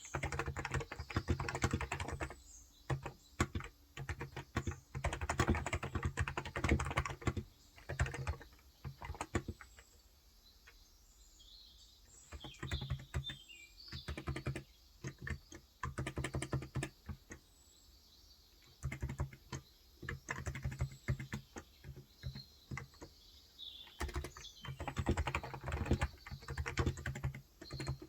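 Typing on a Cox Endeavour electrostatic capacitive (35 g, tenkeyless) keyboard: quick runs of muted keystrokes in bursts, broken by pauses of a couple of seconds. Birds chirp faintly in the background.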